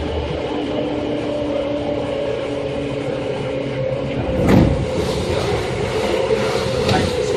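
Seibu 2000 series electric train running, heard from inside: steady wheel and motor noise with a constant hum. A heavy thump comes about four and a half seconds in, and a lighter knock near the end.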